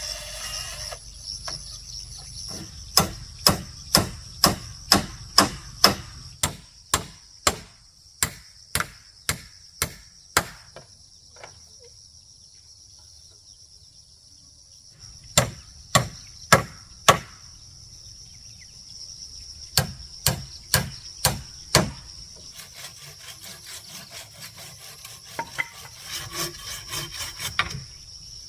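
Hammer blows on wood in runs of about two strikes a second, with pauses between the runs. Near the end comes a rasping rub of wood. Insects buzz steadily throughout.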